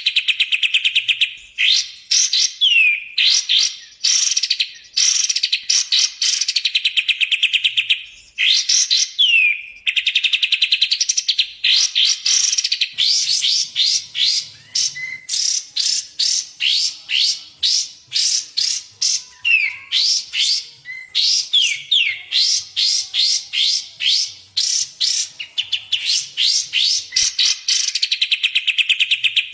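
Birdsong from a masteran training recording of kapas tembak and cucak jenggot. The birds give long runs of very fast, high chattering notes and trills, broken by short pauses, with an occasional downward-slurred whistle.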